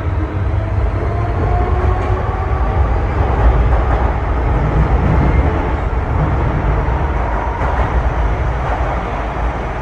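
MTR M-Train electric multiple unit in motion, a steady heavy rumble of wheels on track. A faint whine rises slightly in pitch in the first couple of seconds.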